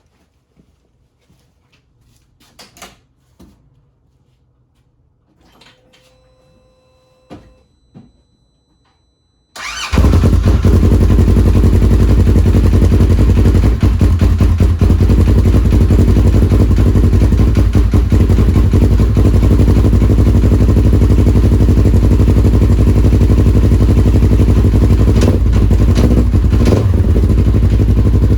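A 2015 Polaris RZR XP 1000's parallel-twin engine with a Tusk exhaust, started for the first time after a new cylinder head is fitted. A few light clicks and a brief tone come first, then the engine catches about ten seconds in and runs loud and steady.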